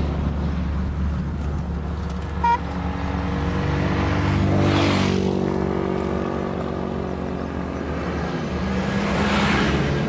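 An engine running under load, rising in pitch twice as it speeds up, with a rush of hiss at each rise. A single short, high beep comes about two and a half seconds in.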